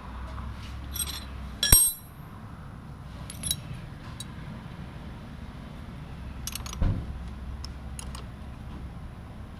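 Small metal parts and tools clinking and clicking as they are handled and set down: a few separate sharp metallic clinks with a brief ring, the loudest about two seconds in and another cluster around seven seconds, over a low steady hum.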